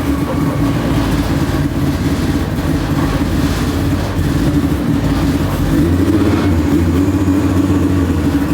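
A 1000-horsepower drag car engine running loud and steady, a low, uneven rumble without big swings in pitch.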